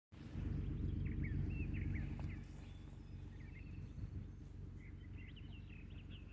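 2002 Ford Explorer's 4.0-litre V6 running just after a cold start, louder for the first two seconds and then settling to a quieter, steady run. Birds chirp over it.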